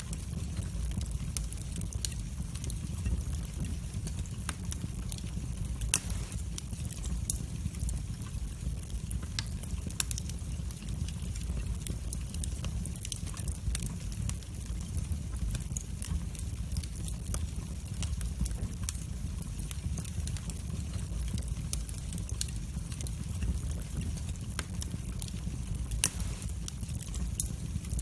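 Wood fire in a fireplace crackling: a steady low rumble of flames with scattered sharp pops and snaps. Two louder pops come about six seconds in and near the end.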